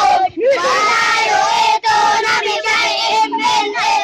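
Several children's voices chanting loudly together in high, drawn-out tones, overlapping one another.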